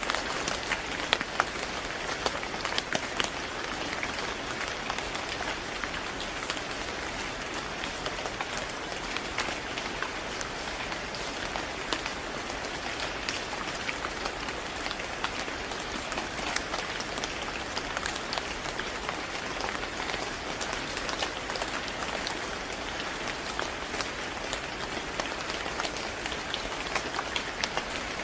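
Steady rain falling on a surface, a continuous hiss with many small drop ticks scattered through it.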